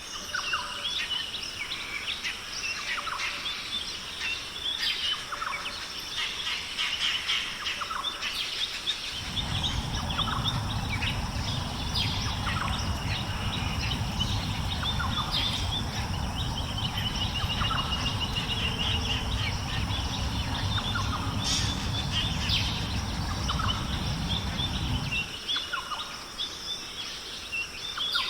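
Many birds chirping and calling, with short high notes coming thick and fast. A low rumble sets in suddenly about a third of the way in and cuts off near the end.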